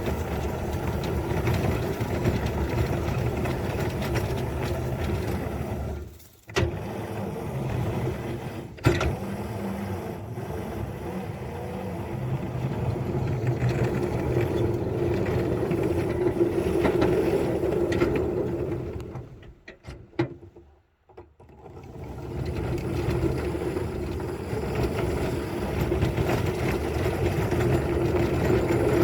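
Engine running steadily with a constant pitch, dropping away abruptly twice: briefly about six seconds in, and for a few seconds about two-thirds of the way through, before it comes back.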